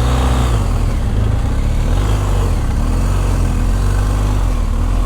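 Motorcycle engine running while the bike is ridden, its pitch rising and falling a little, over a steady rushing noise.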